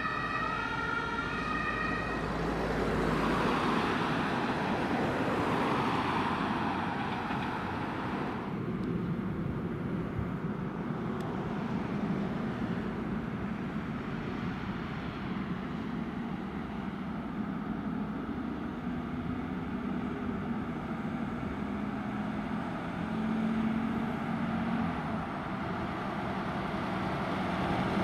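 An emergency vehicle's two-tone siren alternating between two pitches, cutting off about two seconds in; after that, steady street traffic noise with passing vehicles.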